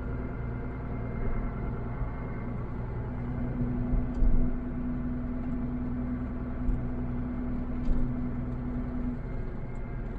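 Truck engine running steadily, heard from inside the cab, with a low rumble and a steady hum that grows stronger from about three seconds in until about nine seconds.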